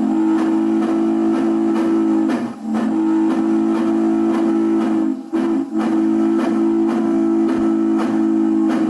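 A steam locomotive chime whistle from a model train's electronic sound system blows the grade-crossing signal: two long blasts, a short one, then a final long one. The locomotive's chuffing sounds faintly beneath it.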